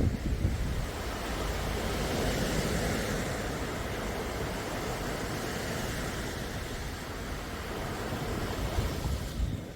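Sea waves washing on the shore: a steady hiss of surf with a low rumble, easing slightly near the end.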